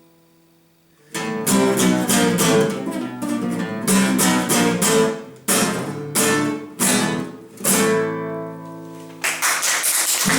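Acoustic guitar in a flamenco style: loud strummed chords broken by sharp stops, ending on a ringing final chord. Applause starts about nine seconds in.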